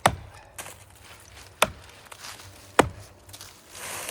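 Axe chopping into the trunk of a big maple tree. Three sharp strikes come about a second and a quarter apart, with a lighter knock shortly after the first.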